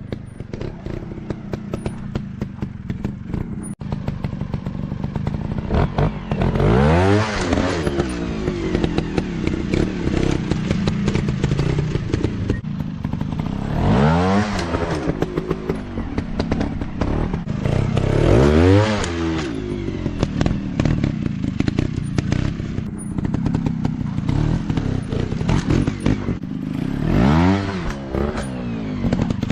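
Dirt bike engine running, revving up and back down about four times with steady running in between.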